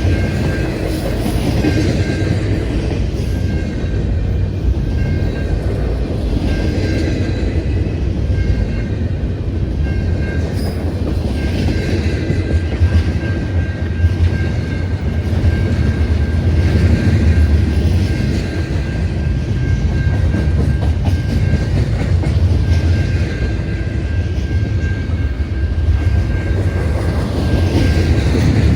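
CN freight train's cars rolling past, with a steady low rumble and wheels clattering over the rail joints as each car goes by. A thin high tone comes and goes over it.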